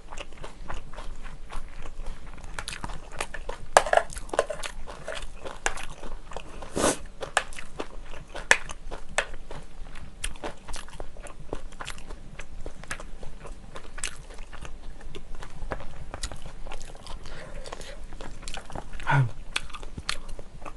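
Close-miked eating of kimchi fried rice: chewing with many small clicks and crackles, mixed with a spoon scraping and tapping on a plate as the rice is gathered up. A few louder clicks stand out about 4 and 7 seconds in.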